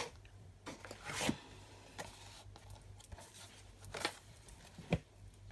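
A few short rustles and taps from handling card and rubber stamps, the loudest near the end, over a low steady hum from a soup maker running its self-clean cycle.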